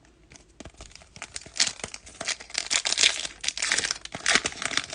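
Foil trading-card pack wrapper being torn open and crinkled, a dense run of sharp crackles and rustles that builds about a second and a half in.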